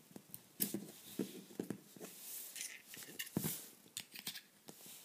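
Light clicks and short scrapes of fingers working at a hard-to-open folding pocket knife, trying to pry a blade out.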